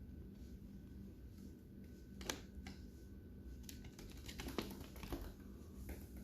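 Lovebirds pecking and cracking seed: scattered sharp clicks and taps at irregular intervals, the loudest about two and a half seconds in, over a low steady hum.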